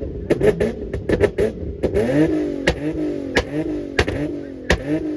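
Car engine revved hard again and again, its pitch jumping up and sliding back down about every three quarters of a second, with sharp pops and cracks among the revs.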